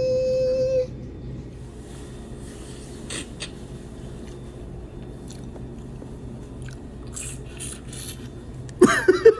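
Faint chewing and mouth clicks from a man eating, over a steady low room hum. A long held "bye" dies away about a second in, and a burst of voice comes in near the end.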